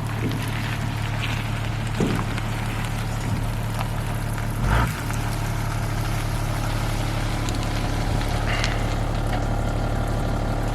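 A vehicle engine idling steadily, as when moving a boat on its trailer, with a short knock about two seconds in and a louder thump near the middle.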